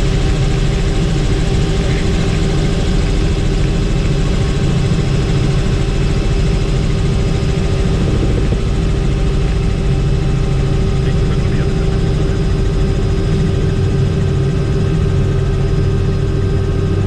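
Helicopter in flight: a steady, loud drone of engine and rotor with several constant whining tones above it.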